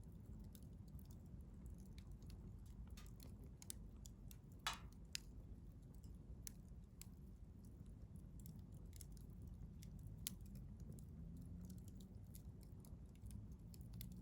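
Wood fire crackling quietly: scattered sharp pops and snaps of burning wood, with two louder pops a little under five seconds in, over a faint low rumble.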